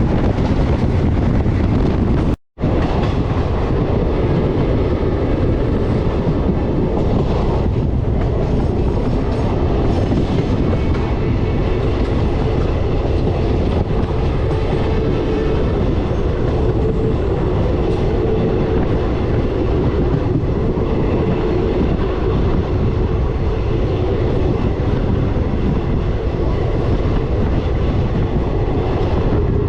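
Passenger train running at speed: a steady rumble of wheels on rails with clickety-clack. The sound cuts out completely for an instant about two and a half seconds in, then resumes.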